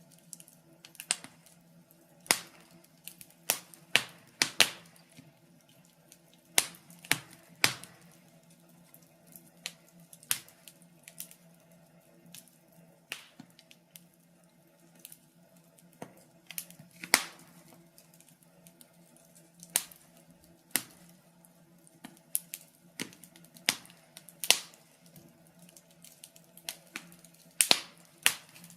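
Wood fire crackling in a fireplace: irregular sharp pops and snaps, a few every couple of seconds, over a faint steady hum.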